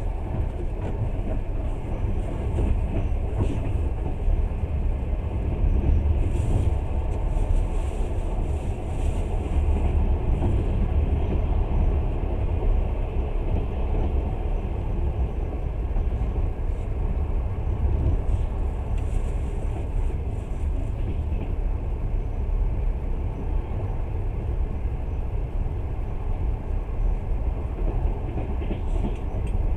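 Long-distance passenger train running at speed, heard from inside a carriage: a steady low rumble of the wheels on the track. A faint high hiss swells twice, about six and eighteen seconds in.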